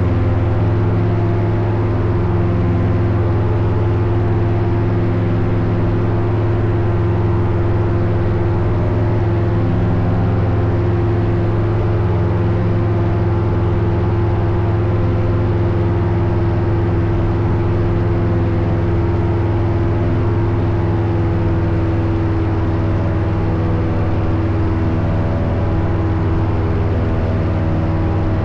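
Paramotor engine running steadily at a constant throttle, with the propeller drone holding an even pitch.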